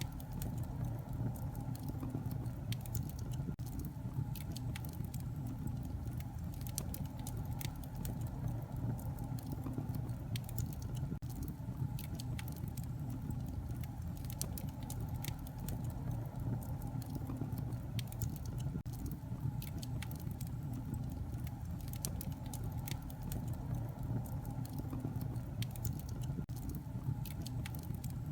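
Wood fire crackling in a fireplace: a steady low rumble of burning with frequent small, irregular pops and crackles.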